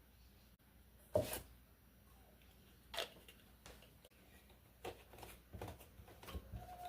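A few sharp knocks and light clatters, the loudest about a second in, then a quicker run of lighter taps near the end, like objects being handled and set down.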